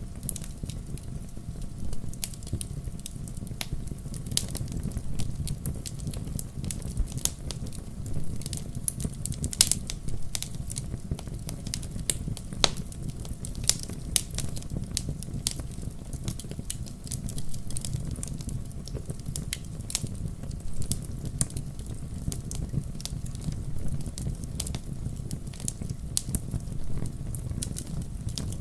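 Wood campfire crackling, with frequent irregular sharp pops and snaps over a steady low rumble of burning.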